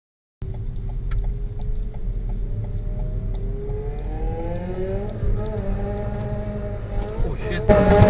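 Vehicle engine running over low road rumble, its pitch climbing as it accelerates and then holding steady, louder near the end.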